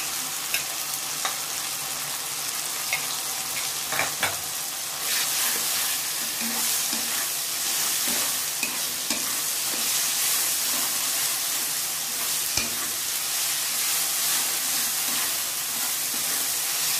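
Onions, potato pieces and ginger-garlic paste sizzling in hot mustard oil in a non-stick kadhai, with a spatula stirring and scraping against the pan in short clicks. The sizzle grows louder about five seconds in, as the paste is fried to cook off its rawness.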